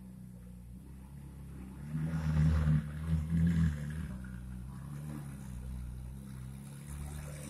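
Ferrari 458 Italia's V8 running at low speed, swelling in two short surges of throttle about two to four seconds in as the car moves off, then settling back to a steady low run.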